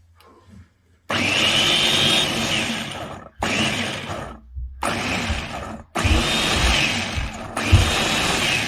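Electric food chopper (meat grinder) running in five short pulses of about one to two seconds each, with short pauses between, its motor whining over the noise of the blades.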